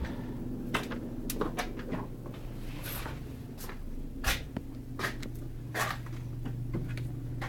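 A series of irregular knocks and clicks, spaced about half a second to a second and a half apart, over a steady low hum.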